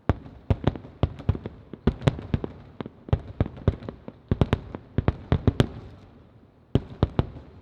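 Aerial firework shells bursting in a rapid barrage of sharp bangs, thinning out after about five and a half seconds, with a last few bangs near the end.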